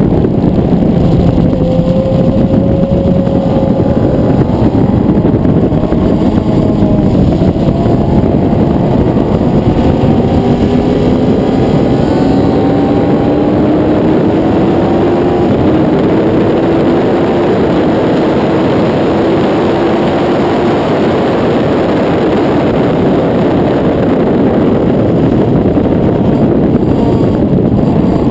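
Suzuki GSX-R 1000 inline-four engine running hard at high revs, heard from an onboard camera at speed under a dense rush of wind noise. The engine note climbs slowly in pitch for about ten seconds in the middle as the bike pulls down a straight.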